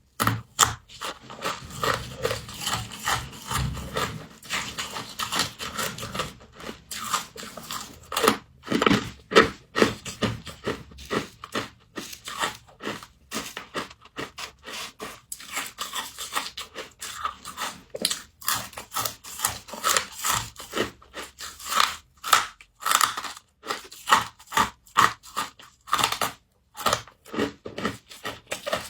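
Humidifier frost being bitten and chewed: a long run of crisp, irregular crunches, several a second, broken by short pauses.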